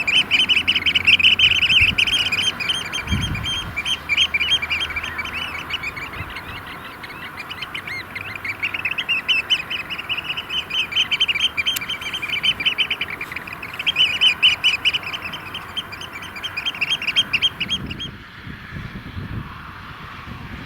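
A flock of Eurasian oystercatchers giving their piping courtship display in chorus: fast, rapidly repeated shrill piping calls, overlapping. The calling stops near the end.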